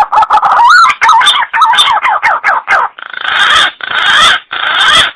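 Green pigeon (punai) lure call: a run of quick whistled, warbling notes sliding up and down in pitch, then three harsher, rasping calls, cutting off abruptly at the end.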